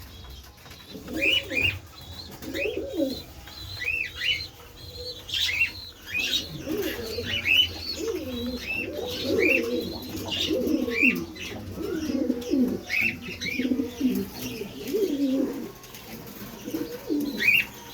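Domestic pigeons cooing over and over in a loft, with repeated short, high chirps from smaller birds.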